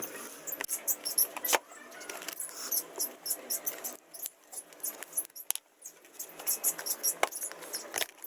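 Light clicks and clinks in quick, irregular succession, from small hard parts or hand tools being handled.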